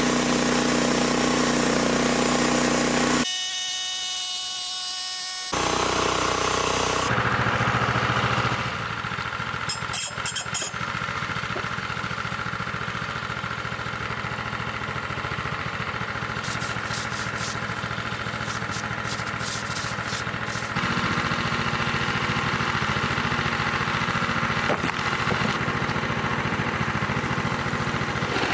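An engine running steadily. Its sound changes abruptly several times, with a higher whining stretch about three to five seconds in.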